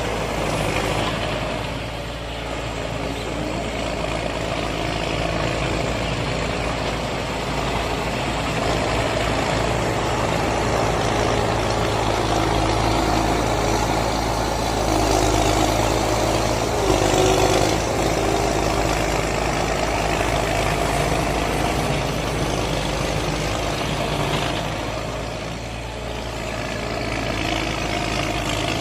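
Tractor engine running steadily, slightly louder for a few seconds past the middle.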